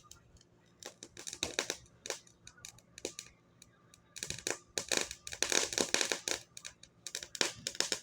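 Small consumer fireworks crackling: several bursts of rapid sharp snaps, the longest lasting about two seconds.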